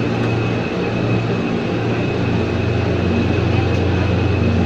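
Ex-JR 203 series EMU car running along the track: a steady rumble and hum with a thin high tone held above it.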